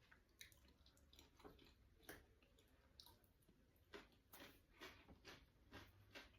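Faint chewing: a person eating, with soft mouth clicks and smacks that come more often in the second half, about two a second.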